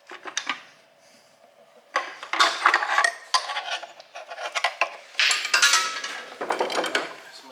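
Metal tools and engine parts clinking and clattering as they are handled, a few light clicks first, then steady clatter from about two seconds in.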